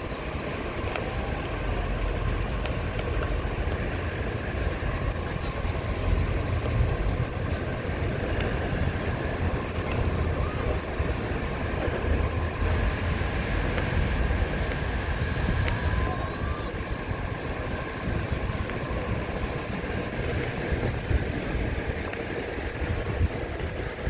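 Wind rumbling on the microphone over the steady hum of a Onewheel's hub motor riding along the sand, its tyre crunching over shells, with surf in the background.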